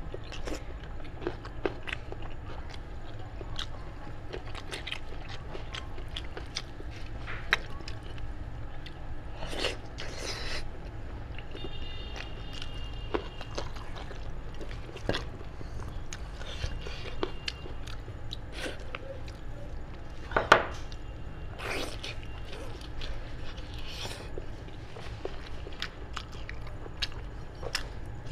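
Close-miked mouth sounds of eating meat from a cooked sheep's head: wet chewing, lip smacks and small sharp clicks, scattered irregularly over a steady low hum. One sharp click, louder than the rest, comes about twenty seconds in.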